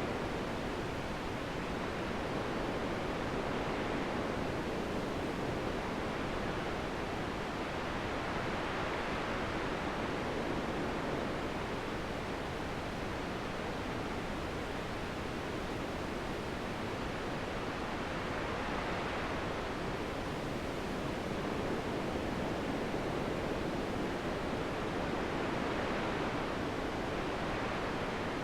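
Steady rushing wind that swells and eases slowly in long gusts every several seconds.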